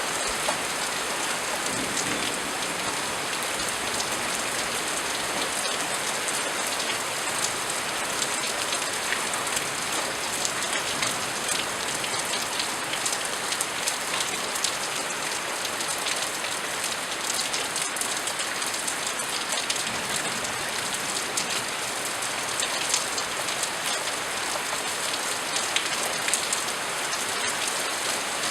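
Steady rain falling, a constant hiss with many sharp individual drop impacts scattered through it.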